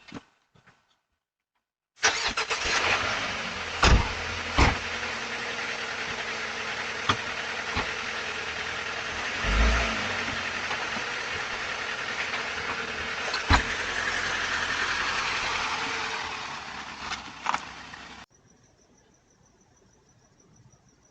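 Car engine running, heard through a doorbell camera's microphone, with several sharp knocks over it. It cuts off suddenly near the end.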